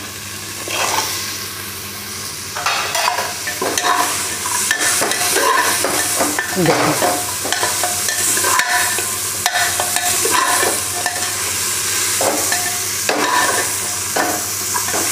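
Vegetables frying in hot oil in an aluminium pressure cooker, sizzling as cauliflower florets go in, while a perforated steel ladle stirs them and scrapes against the pan. The scrapes and clinks come thick and fast from a few seconds in.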